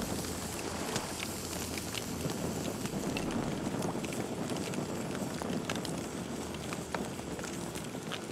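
Campfire crackling: a steady hiss with many scattered sharp pops from the burning wood, and a faint steady high tone above it.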